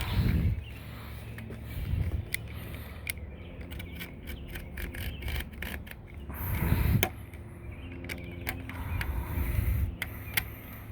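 Hand work on a screen door frame as pet screen is fitted: rubbing and scraping with scattered sharp clicks and a few low bumps of handling.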